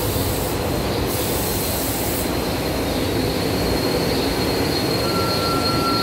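SEPTA Regional Rail train rolling slowly into the station, its wheels giving a steady rumble on the rails. A hiss runs through the first two seconds, and a thin, high squeal sets in about halfway, joined near the end by a second, lower squeal as the train brakes to a stop.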